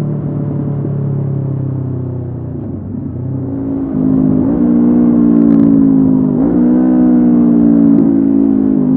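Honda CB500F's 471 cc parallel-twin engine through a Mivv GP Pro exhaust, under way: steady at first, easing off about two and a half seconds in, then opening up louder and higher about four seconds in, with brief dips in pitch.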